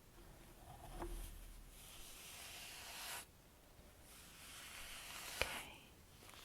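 A facial wipe rubbed over skin in two long, soft hissing strokes, with a small sharp click about five seconds in.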